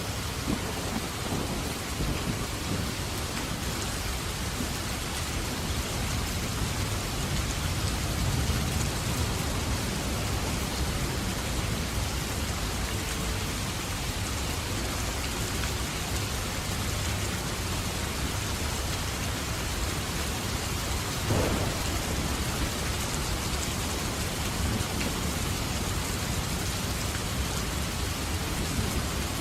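Steady heavy rain pouring down, with low rolling rumbles of thunder through it.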